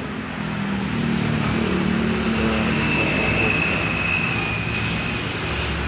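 A motor vehicle engine running, most likely passing traffic. It grows louder about a second in and eases off near the end, with a thin steady high whine through the middle.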